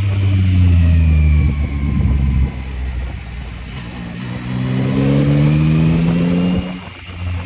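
Yamaha MT-09 three-cylinder motorcycle engine heard from the rider's seat. Its pitch falls as the bike eases off over the first couple of seconds, then climbs steadily as it accelerates from about four seconds in. It cuts back briefly near the end, as at a gear change, before pulling again.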